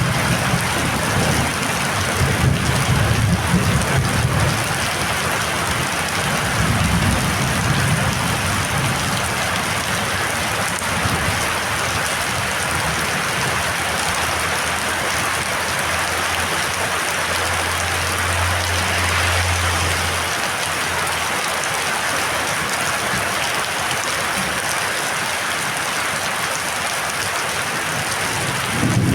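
Heavy rain pouring steadily, with low rumbles of thunder during the first several seconds.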